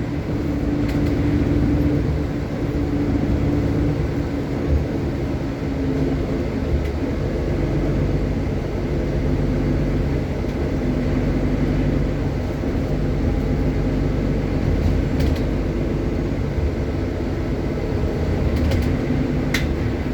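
Steady low rumble of a city bus heard from inside while riding, with engine and road noise and a hum that comes and goes in the first half. A few short rattles come near the end.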